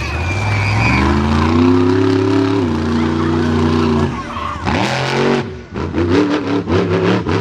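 Monster truck engine revving up and holding high, then dropping. About five seconds in comes a burst of noise, then a rapid string of throttle blips before the engine revs up again.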